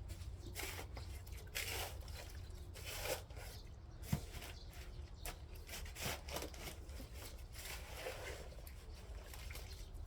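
Shovel working soil: irregular scrapes and crunches as earth is dug and tipped onto a low spot to build it up, with a sharp knock about four seconds in.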